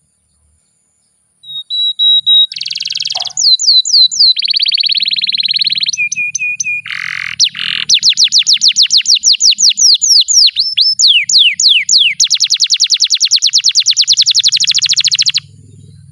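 Domestic canary singing a long song of fast trills, rolls and runs of repeated downslurred whistles. It starts after a second and a half of silence and cuts off suddenly just before the end.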